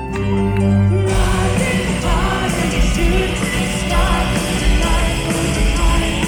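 Symphonic metal band playing live, recorded from the audience: held keyboard and bass notes, then about a second in the full band with drums comes in under a melody line and singing.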